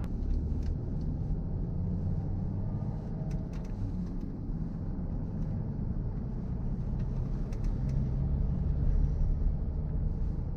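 Steady low rumble of engine and road noise inside the cabin of a Mercedes ML 280 CDI, whose 3-litre V6 diesel is running while the car is driven.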